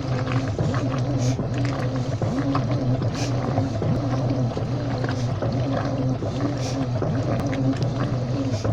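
Washing machine running: a steady motor hum with water sloshing and churning in the drum.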